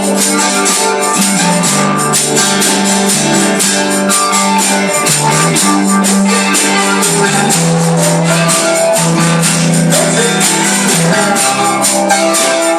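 Live gospel band playing an instrumental passage, with a tambourine shaking a steady beat over guitar.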